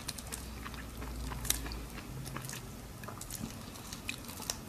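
Wet, crackling clicks of a cooked, butter-soaked shrimp's shell and head being torn off by hand.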